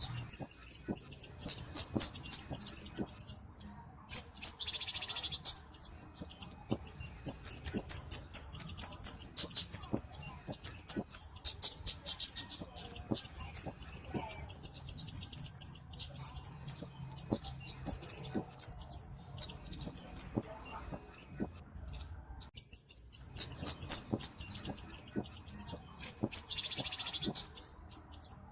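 Flowerpecker (cabe-cabean) calling: long runs of rapid, high, thin ticking notes, about eight to ten a second, broken by short pauses, with a brief hissy note now and then.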